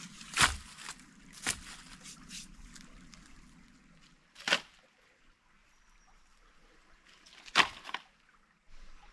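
Water splashing and sloshing in a few short bursts, the loudest about half a second in and near the end, over faint steady background noise.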